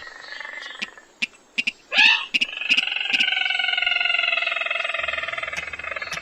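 Recorded rail calls (sintar mata merah, mandar padi) played as a trapping lure. A long buzzy call falls slowly in pitch, then come sharp clicking notes and a loud rising squeal about two seconds in. A second long call follows, sliding gradually lower.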